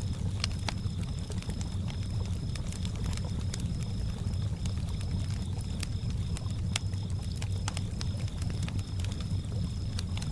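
Campfire crackling with scattered sharp pops, over a low steady wash of lake water lapping, with crickets chirping in a fast even pulse throughout.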